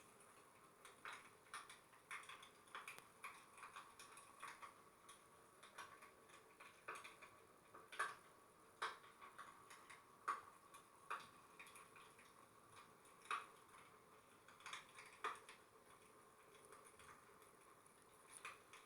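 Fireplace fire crackling faintly, with irregular small pops and a few sharper snaps.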